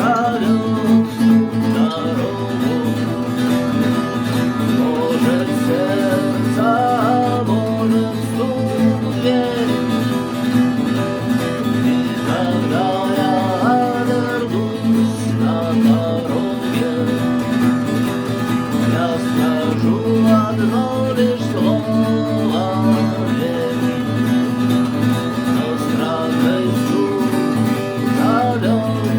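Guitar music: an instrumental passage with a melodic line over a steady accompaniment and no singing.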